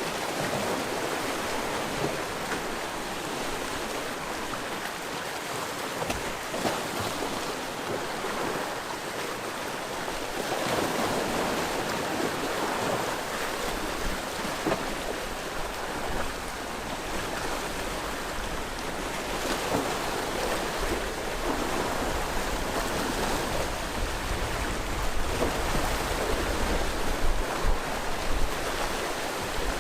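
Sea waves washing against a rocky shore, a steady rush of surf that swells and eases. Gusts of wind buffet the microphone with a low rumble in the last few seconds.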